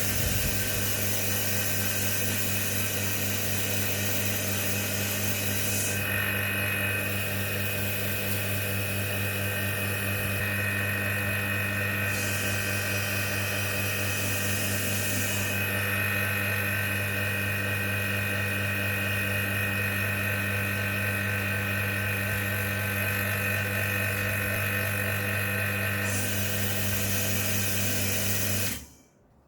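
Electric vacuum pump running steadily with a deep hum and a hiss, its pitch shifting a few times, then cutting off suddenly near the end.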